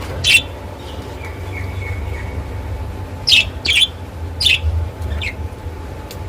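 Small pet parrots chirping: one sharp chirp just after the start, then a quick run of four chirps in the second half, over a steady low hum.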